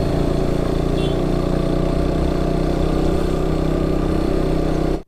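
Motorcycle engine running steadily while riding along. The sound cuts off abruptly just before the end.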